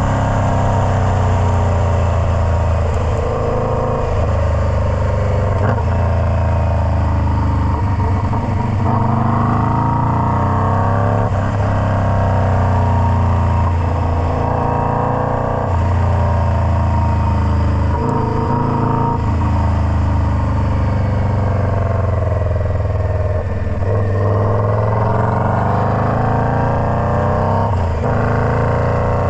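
Indian Scout Bobber's V-twin engine through a Freedom Performance Combat 2-into-1 exhaust, running under way. Its pitch repeatedly rises and then drops sharply every few seconds.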